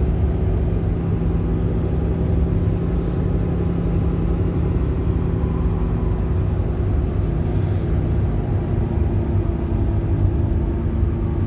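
A bus's engine running steadily, with road rumble, heard from inside the cabin.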